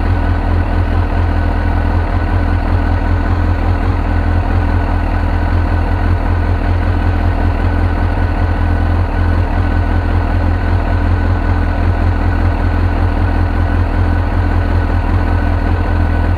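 2002 Suzuki GSX-R1000's inline-four engine idling steadily, purring smoothly as it warms up after its first start following a fuel-system cleaning, new plugs and a new air filter.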